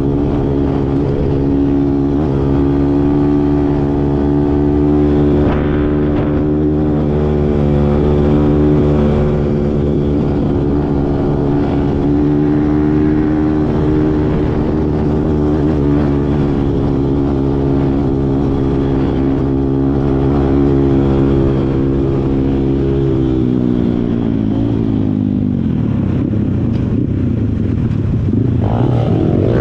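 Kawasaki KLX140 dirt bike's single-cylinder four-stroke engine running at steady revs. Its pitch drops off about three-quarters of the way through, then climbs again near the end.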